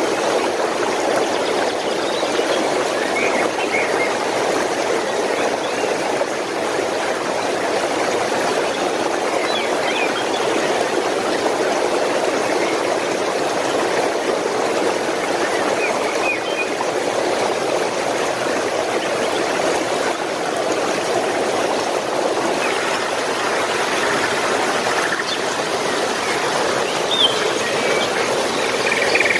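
A stream of water flowing steadily, with a few brief bird chirps now and then.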